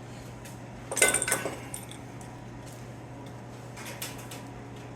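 Small metal pieces clattering and clinking together for about half a second, starting about a second in, with a ringing after the strikes. A few faint clicks follow, over a steady low hum.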